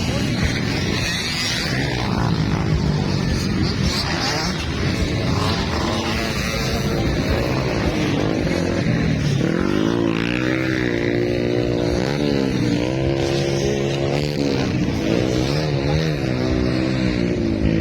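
Motocross bike engines revving on the track, their pitch climbing and dropping again and again as the riders work the throttle. From about ten seconds in, one engine stands out clearly, with repeated rises and falls in revs.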